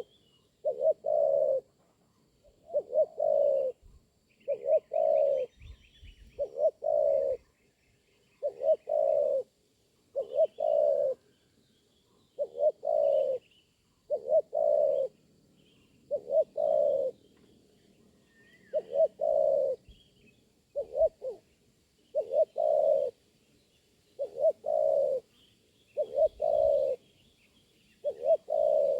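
Spotted dove (tekukur) cooing: a low coo phrase about a second long, repeated steadily every two seconds or so. Faint chirps of small birds sound higher up.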